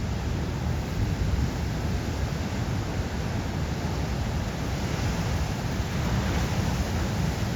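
Large ocean waves breaking: a steady, low rumble of heavy surf.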